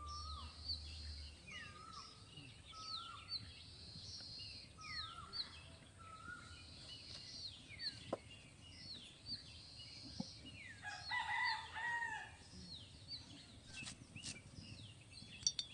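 Small birds chirping over and over in short, quick falling notes, with a rooster crowing once about eleven seconds in.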